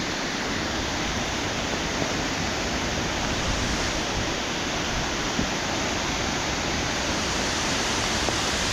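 Waterfall running in full spate after heavy rain, a steady rushing of falling water.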